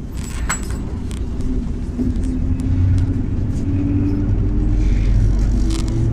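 MAZ-103 city bus from inside the passenger cabin: a deep engine and road rumble with a note that climbs gradually as the bus picks up speed, and a few short rattles from the body.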